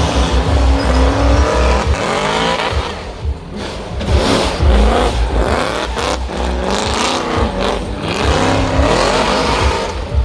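Race car engine revving hard, its pitch climbing and dropping again several times as it accelerates and shifts or lifts off.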